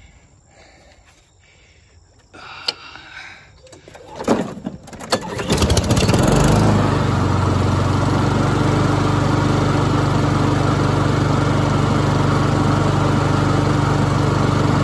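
Honda GCV200 lawn mower engine starting about five seconds in after a few clicks and knocks, then running steadily and staying running on fresh fuel after its gummed-up carburetor was cleaned.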